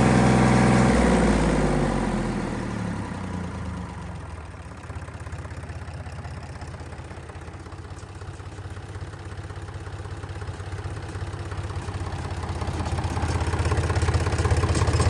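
Deutz F3L912 air-cooled three-cylinder diesel engine running. Its revs drop about two seconds in and it settles to a steady idle, growing gradually louder toward the end.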